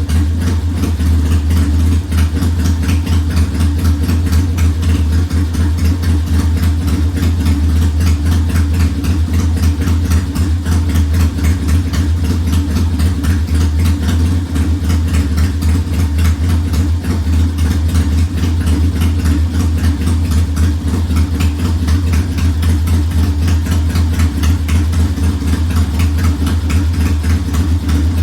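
1969 Triumph T100's 500 cc parallel-twin engine idling steadily.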